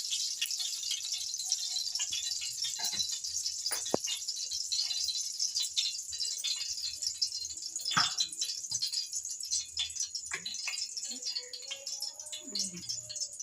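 Ghee sizzling and crackling in a hot cooking pot, with a few sharp clinks of a spoon or utensil against the pot.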